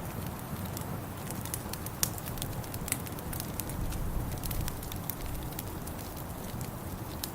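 Wood fire crackling in a fireplace: irregular sharp pops and snaps over a low, steady rumble, with the loudest pop about two seconds in.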